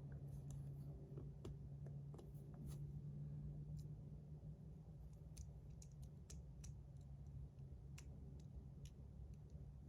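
Faint, scattered clicks of a 3D-printed plastic fidget slider being handled and fitted back together, over a low steady hum.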